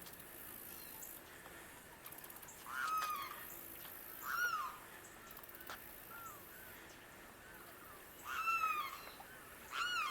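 Limpkin calling: four loud, wailing calls, each about half a second long and rising then falling in pitch, with fainter short calls in between.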